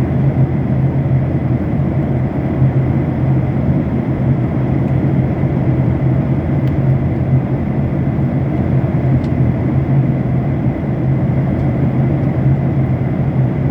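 Steady drone of an airliner cabin in flight: engine and airflow noise with a strong low hum, and a thin high tone running through it. A few faint ticks come through about halfway.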